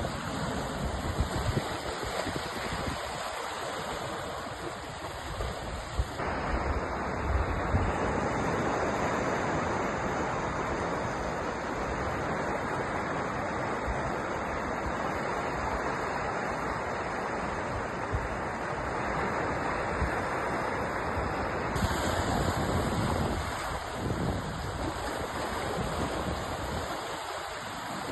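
Sea waves washing and breaking in a continuous rush of surf. The wash fills in abruptly about six seconds in and thins again about 22 seconds in.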